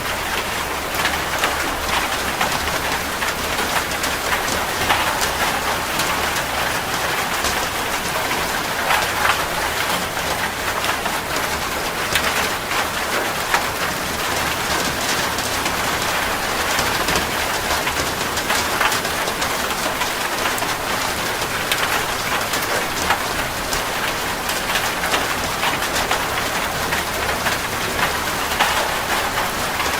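Steady rain falling, with dense individual drop hits on a surface making a constant, even hiss.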